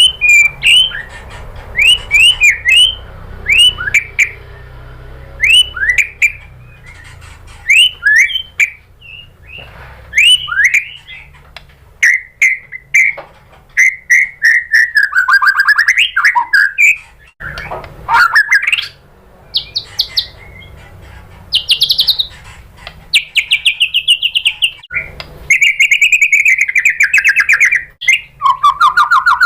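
White-rumped shama singing. A run of sharp, quickly rising whistled notes repeats in short phrases, then gives way in the second half to fast buzzy trills and rattles.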